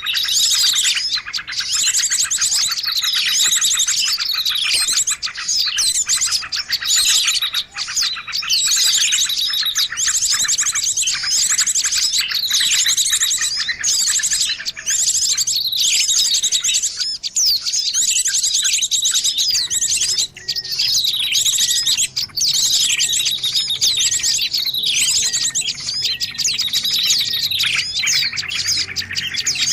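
Many small birds of mixed species chirping and calling at once: a dense, unbroken tangle of short high chirps and trills, the noisy mixed-flock sound used as a bird lure.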